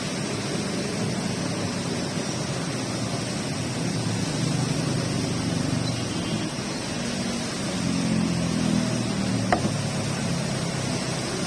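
Steady rain falling, an even continuous hiss, with one sharp tap about nine and a half seconds in.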